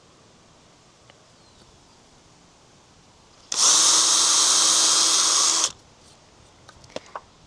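Power drill running steadily at one pitch for about two seconds, starting partway in, as it bores a pilot hole for a screw into a hard pressure-treated wooden post. A few light clicks follow near the end.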